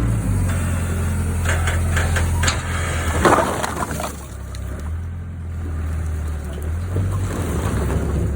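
Wheel loader's diesel engine running, with a few sharp knocks and then a louder rushing clatter about three seconds in. After that the engine settles lower and quieter before picking up again near the end.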